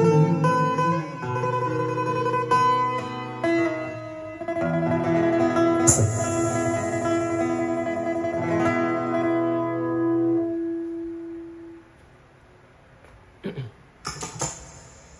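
Instrumental ending of a karaoke backing track, with guitar-like plucked notes and chords, dying away about eleven seconds in. Two short, sharp sounds follow near the end.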